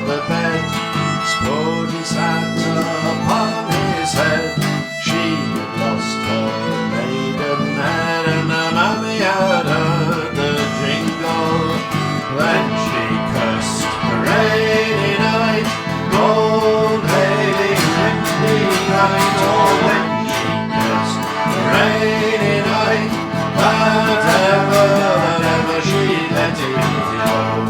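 Instrumental folk music: a fiddle playing the tune over a strummed and plucked acoustic guitar.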